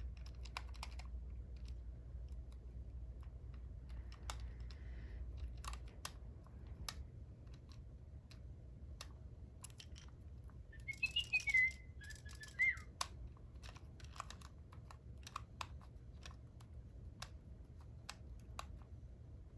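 Small sharp plastic clicks and taps, scattered and irregular, from working the screw and battery cover on the underside of a Lil' Bird toy. About eleven seconds in comes a short bird-like chirping whistle lasting about two seconds.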